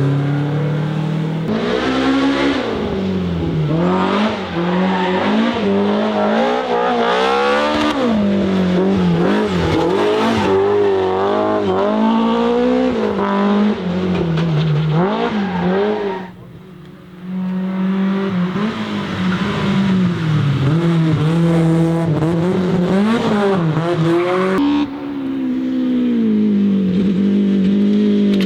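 BMW E30 M3's S14 four-cylinder engine driven hard, the revs climbing and falling again and again through gear changes and lifts off the throttle. It drops away briefly about two-thirds of the way through.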